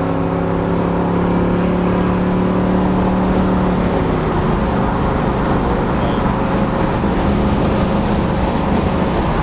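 Chevrolet 350 crate small-block V8 in a 1981 Camaro, pulling hard at steady high revs. About four seconds in, the revs drop, and the engine settles to a lower, steady note.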